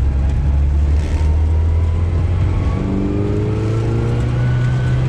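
1960 Austin Mini Countryman's small four-cylinder A-series engine pulling under acceleration, heard from inside the car: a low growl that rises steadily in pitch from about halfway in, with a thin whine climbing with it.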